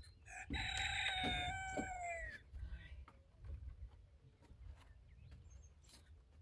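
A rooster crowing once, a single call of about two seconds that holds its pitch and then falls away at the end. A few faint knocks sound during the crow.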